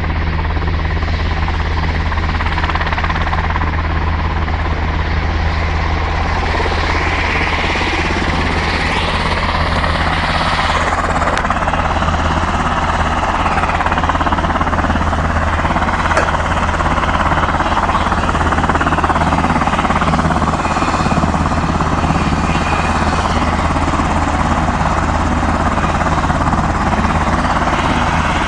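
A turbine-powered military aircraft running steadily and loudly: a constant low drone under a broad rushing engine noise, with no change in pitch.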